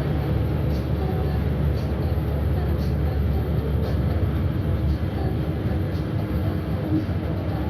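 Steady low rumble of a moving bus, engine and road noise heard from inside the cabin, with faint ticks about once a second.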